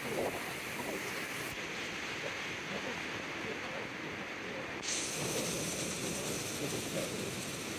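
Steady loud roar of water rushing at the reservoir dam, mixed with wind on the microphone. Its tone shifts abruptly about a second and a half in and again about five seconds in.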